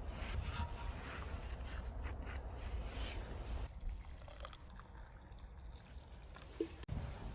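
Crunching and chewing of fried bread croutons, with scattered small crisp clicks over a low rumble that drops away about halfway through.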